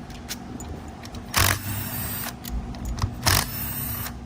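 Metal hand-tool clinks as a socket wrench works the 7 mm bolts holding the transmission control module on a 6L80 automatic transmission, with two louder metallic clanks, one about a second and a half in and one about three seconds in, over a steady low hum.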